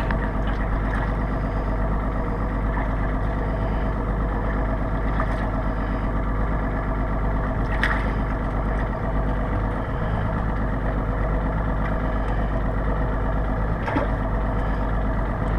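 Boat engine idling steadily, an even hum with a couple of faint clicks about halfway through and near the end.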